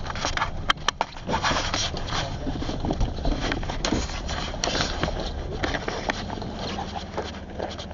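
Footsteps of people walking off into the woods, irregular crunching and scraping underfoot, with sharp clicks and rustling of the handheld camera.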